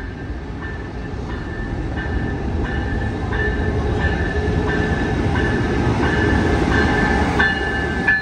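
Siemens Charger diesel locomotive bringing a passenger train into a station. Its rumble grows louder as it draws level and passes, while its bell rings steadily about twice a second.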